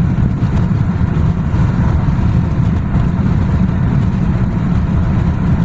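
Steady low road and engine rumble heard from inside a moving vehicle's cabin.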